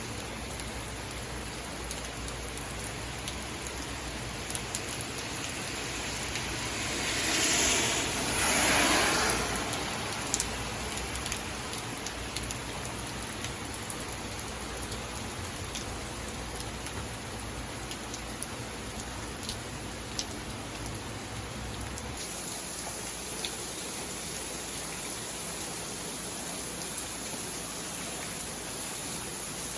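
Steady rain falling, with scattered drops ticking. About seven seconds in, a louder rushing swell rises and fades over a couple of seconds, and a low rumble underneath stops about two-thirds of the way through.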